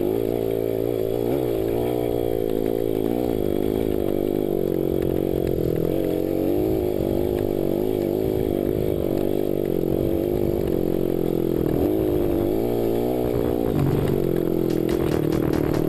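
Dirt bike engine running, its revs rising and falling over and over.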